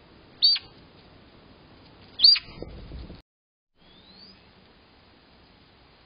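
Two loud, short bird calls about two seconds apart, each a sharp whistle that drops quickly in pitch. A low rustle follows the second call, and a faint rising call comes a little later.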